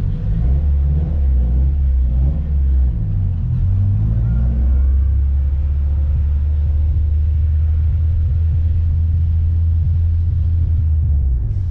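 Car engine and exhaust at low revs, a steady low rumble as the car rolls slowly. The pitch shifts a little in the first few seconds, then holds steady, and the sound breaks off abruptly just before the end.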